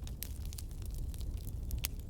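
Wood fire burning in a fireplace, crackling: scattered sharp pops and snaps over a low steady rumble of the flames, with a couple of louder pops.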